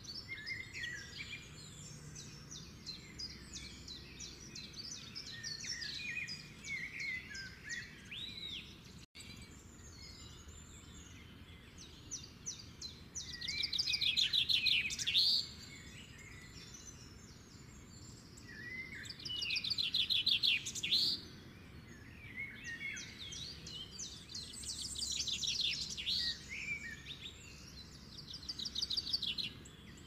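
Songbirds chirping and calling, with a loud, rapid trill that comes back about every five seconds in the second half, each one lasting a second or two.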